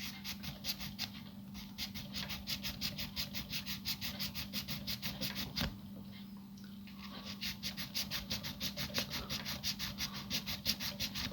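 Small hand file rasping in quick back-and-forth strokes, about four a second, on the inside of a repaired toy part to take down a lip; it pauses briefly around the middle, then carries on.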